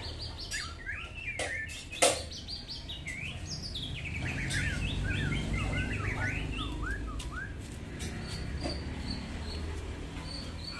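Small birds chirping and twittering in quick rising and falling notes over a low steady rumble, with a sharp click about two seconds in. Near the end a high short note repeats evenly, a few times a second.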